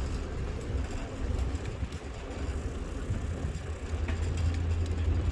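Wind buffeting the microphone of a moving bicycle, a low, uneven rumble that grows stronger about four seconds in.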